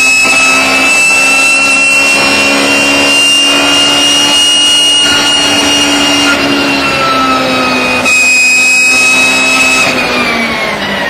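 BMW E36 race car running at high, steady revs, loud, with a high steady whine over the engine note from its straight-cut gearbox. Near the end the pitch falls as it comes off the throttle.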